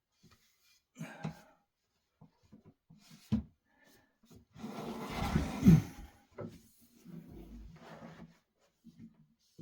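Things being handled and moved about in a small room: scattered light knocks, a sharp knock about three seconds in, then a longer, louder scrape and rustle around five to six seconds in, followed by lighter rubbing.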